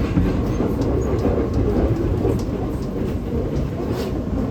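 R211T subway car heard from inside while running on the track: a steady rumble from wheels and rails, with a few faint clicks.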